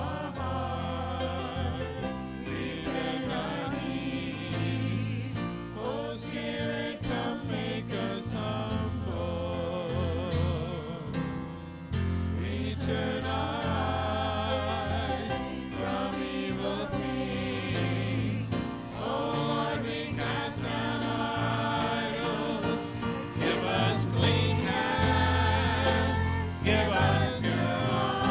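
Gospel choir singing with instrumental accompaniment, the voices wavering in vibrato over a steady bass line.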